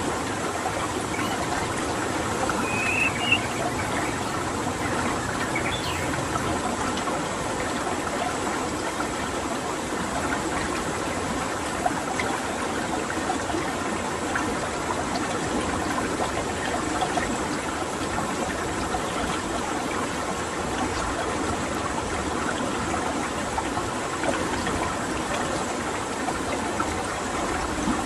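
Steady running water, like a stream, with a few brief high bird chirps in the first few seconds.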